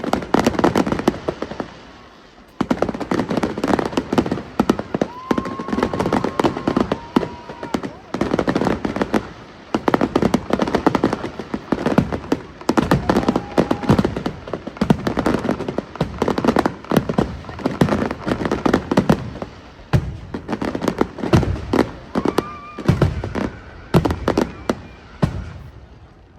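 Aerial fireworks display: a dense, continuous barrage of bangs and crackles coming in waves, with a few brief held tones among them.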